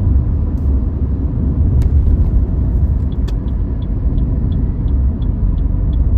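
A car driving, heard from inside the cabin: steady low road and engine rumble. From about three seconds in, a light regular ticking comes in at about three ticks a second.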